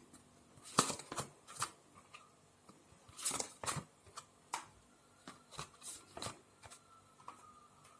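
Tarot cards being handled: a string of irregular, crisp card flicks and rustles, about a dozen in all.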